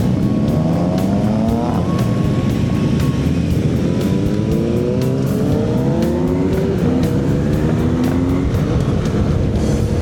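Honda CB1100's air-cooled inline-four engine accelerating through the gears. Its pitch climbs and then drops at each upshift, several times over, under a steady rush of wind.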